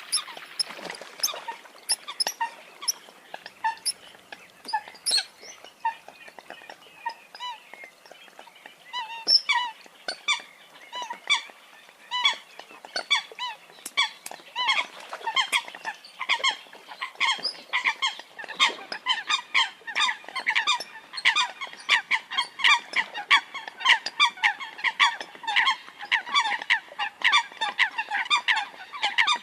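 Eurasian coot calls: short, sharp notes repeated over and over. They are sparse at first, then thicken into a dense run of about three calls a second from about ten seconds in.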